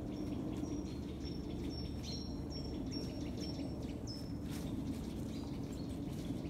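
Outdoor woodland ambience: a steady low rumble of background noise, with a small bird giving a run of short, high chirps through the middle seconds.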